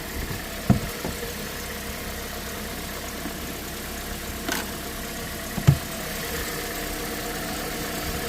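Car engine idling steadily, left running so the automatic transmission fluid level reads right while fluid is topped up. Two short low thumps, under a second in and again just before six seconds, and a faint tick between them.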